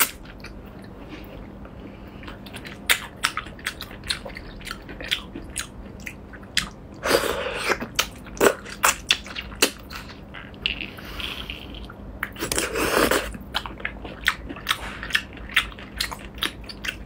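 Close-miked biting and chewing of octopus tentacles in garlic sauce: many sharp, wet mouth clicks and smacks, with two longer noisy stretches about seven and twelve and a half seconds in.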